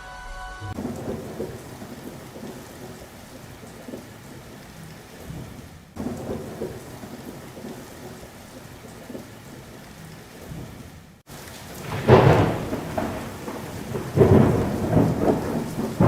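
Thunderstorm: steady rain with rolling thunder, and two heavy thunder rumbles near the end. The storm sound breaks off abruptly twice.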